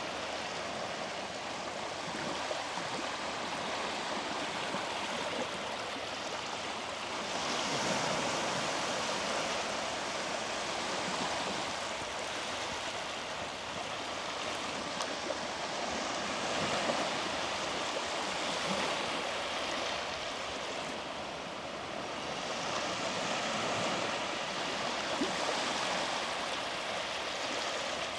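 Small sea waves washing onto a beach: a steady rushing wash that swells and falls back every several seconds.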